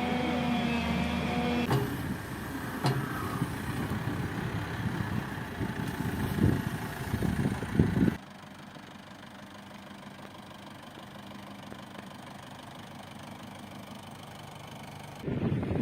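Heavy machinery engines running, heard across several abruptly cut-together clips. A louder rough stretch with a few knocks comes first; about halfway through it cuts to a quieter steady hum.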